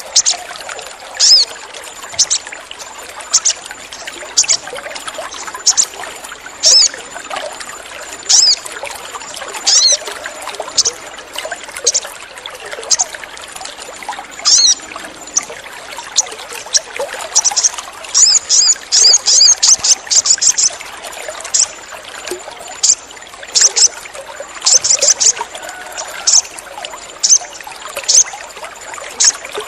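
Sogon sunbird calling: short, high chirps about once a second, with a fast run of chirps about two-thirds of the way through. Steady trickling water runs underneath.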